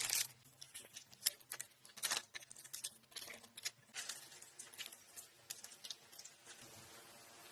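Irregular taps, clicks and short rustles of hand work on building material, about one or two sharp strokes a second with quieter scratching between them.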